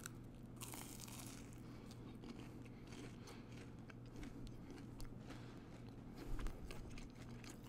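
Faint biting and chewing of a mini vegan corn dog, its cornbread crust baked crisp and crunching between the teeth in small irregular clicks and crackles.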